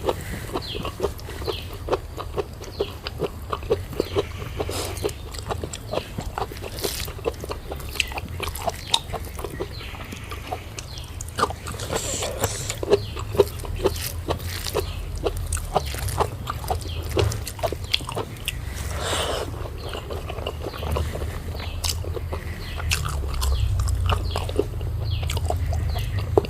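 Close-miked eating sounds: wet chewing and lip-smacking, heard as a dense run of short, irregular clicks, over a low steady hum.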